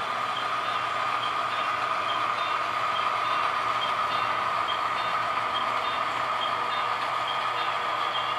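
Rail-yard sounds playing in the background from a video: a steady diesel locomotive rumble with a faint high beep or tick repeating a little faster than once a second.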